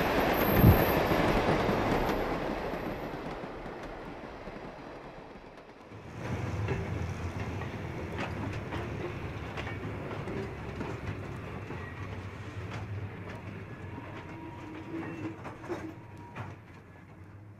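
Passenger train rolling past, its wheels clicking over the rail joints, loudest at first and fading as the cars move away. The sound breaks off about six seconds in and resumes with a quieter rumble and scattered clicks that slowly die away.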